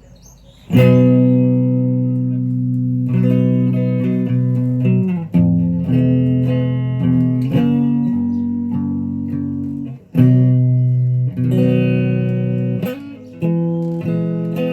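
Guitar chords struck and left to ring, a new chord every few seconds, each one sustaining and fading before the next.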